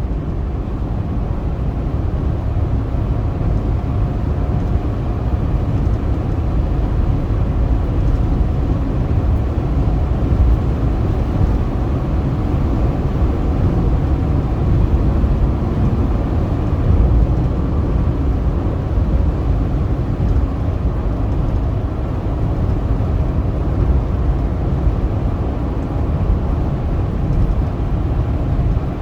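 Steady low rumble of a car driving at highway speed: tyre and engine noise with a faint hum.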